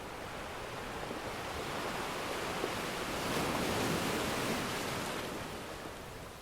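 Ocean surf: one wave swells to a peak about midway, then washes back and fades.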